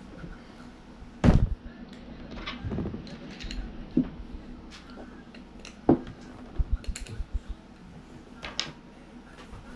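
Skateboard wheels and bearings knocking and clicking as the bearings are forced into the wheels: a few sharp knocks, the loudest about a second in, and a quick run of low thumps past the middle.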